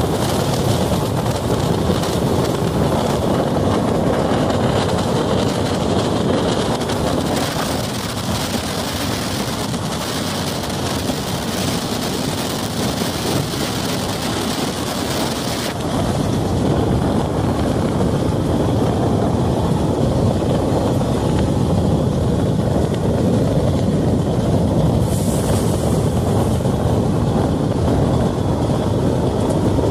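Running noise of a moving passenger train, its wheels rumbling steadily on the rails, with wind buffeting the microphone. The rumble grows a little louder about halfway through.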